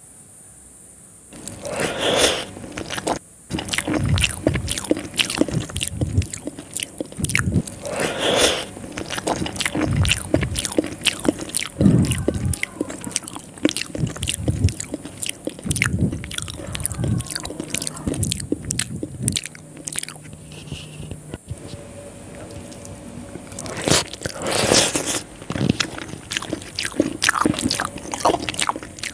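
Close-miked mouth sounds of someone eating soft rice noodles (string hoppers) soaked in sweet coconut milk: steady chewing and lip smacking with many small clicks, starting about a second and a half in, with a few louder mouthfuls.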